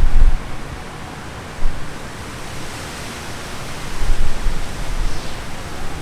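Steady rain with wind buffeting the microphone in loud, low rumbling gusts, at the start, briefly about one and a half seconds in, and again from about four to five seconds in.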